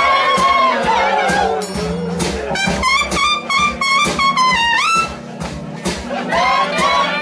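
Live blues band playing an instrumental break, with brass horns leading over drums and bass. The horns hold long notes, then play a quick repeated figure that bends down in pitch about five seconds in.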